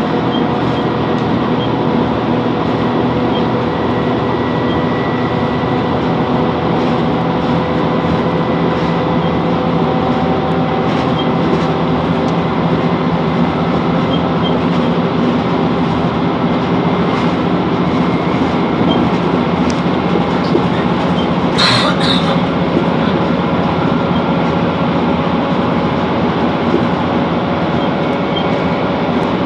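Class 165 Networker Turbo diesel multiple unit running, a steady drone of engine and rail noise with several held tones. A brief high sound cuts through it about three-quarters of the way through.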